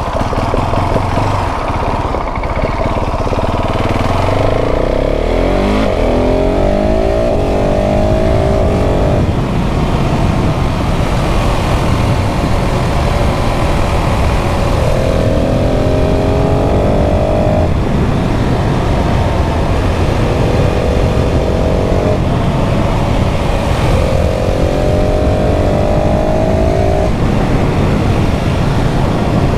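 KTM 690 SMC R's single-cylinder engine pulling hard on the road, rising in pitch in several runs, each cut off sharply at a gear change, over a steady rush of wind noise.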